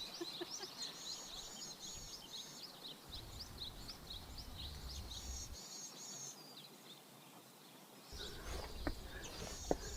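Small birds chirping and singing in woodland: many quick high chirps, with a short repeated phrase heard twice, about a second in and again past the middle.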